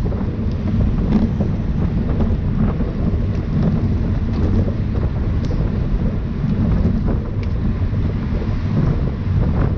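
Loud, steady wind rush buffeting the microphone of a camera riding along in a bicycle race, with a few faint clicks.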